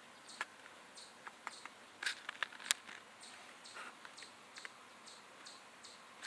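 Newly hatched nestlings peeping: thin, high, falling cheeps repeated about twice a second, with a few sharp clicks around two to three seconds in.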